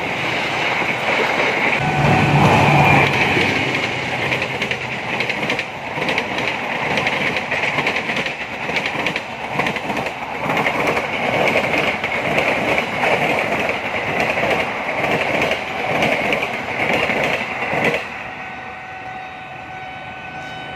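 A diesel-electric locomotive and its passenger coaches passing close at speed. The locomotive's engine drone is strongest about two seconds in, followed by a steady rush and rhythmic clatter of wheels over rail joints. The sound drops off sharply near the end as the last coach goes by.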